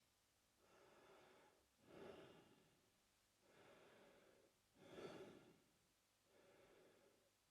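A man breathing slowly and quietly through his mouth, about one breath every three seconds. Each breath is a softer, longer airy phase followed by a shorter, louder one: two full breaths, with a third beginning near the end.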